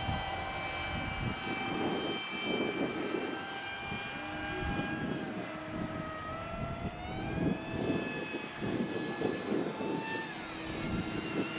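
Radio-controlled model aeroplane in flight: its motor and propeller drone steadily, with the pitch sliding upward about two thirds of the way through.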